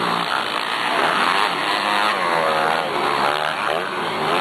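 Motocross motorcycle engines revving on the track, their pitch rising and falling as the throttle opens and closes, with more than one bike heard at once.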